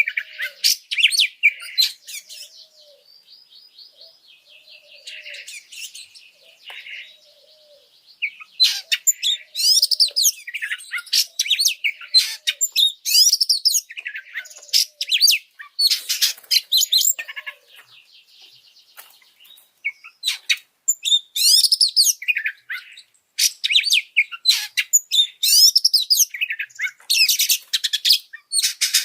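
Oriental magpie-robin (kacer) singing a fired-up song of rapid, varied chirps and whistles. A quieter, softer stretch of twittering comes a few seconds in before the loud phrases resume.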